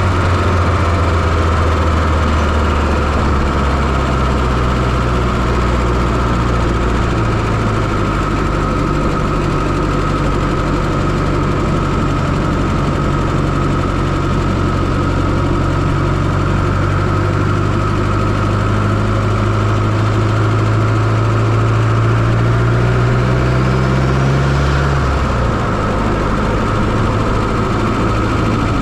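1995 Fiat Coupé 2.0 16V turbo four-cylinder engine running steadily near idle, heard close up from inside the engine bay. Its low hum shifts a little and drops about 25 seconds in.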